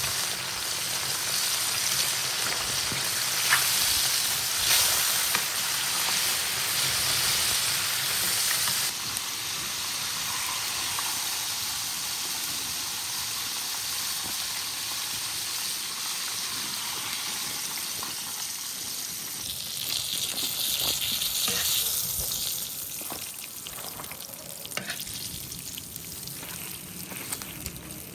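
Food sizzling as it fries in a hot pan, a steady crackling hiss that swells louder about twenty seconds in, then dies down toward the end.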